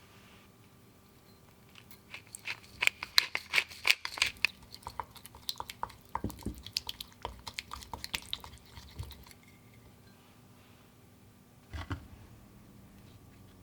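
Crinkling and crunching handling noise: a dense run of sharp crackles for a couple of seconds, thinning to scattered clicks, then a single thump near the end.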